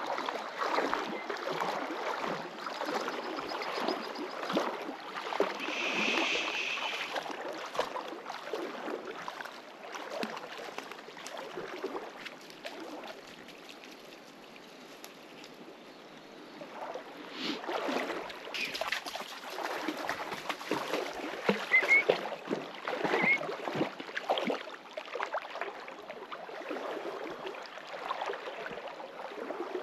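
Footsteps wading through a shallow river: irregular splashes over the running water, easing off for a few seconds midway. A bird chirps briefly a few times in the second half.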